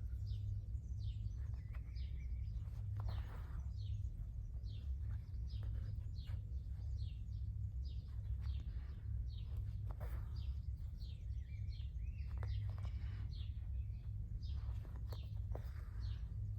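Small birds chirping over and over in quick downward notes, with a steady low hum underneath.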